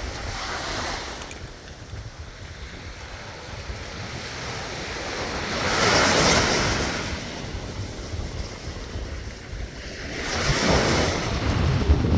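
Sea waves breaking on the shore: three swells of surf about five seconds apart, with wind buffeting the microphone.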